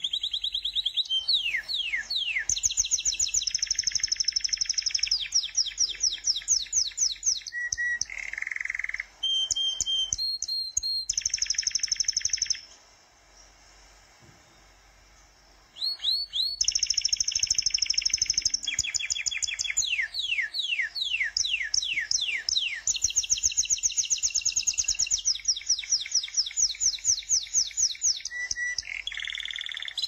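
Bird song: fast series of high chirps and downward-sweeping trills, repeated over and over, with a break of about three seconds near the middle.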